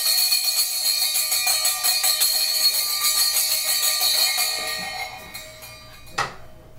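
A bell rung over and over, a dense metallic ringing that dies away about five seconds in, followed by one brief sharp sound near the end.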